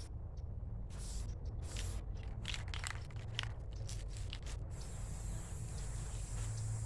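Aerosol spray-paint can spraying in a series of short hissing bursts, which stop about five seconds in.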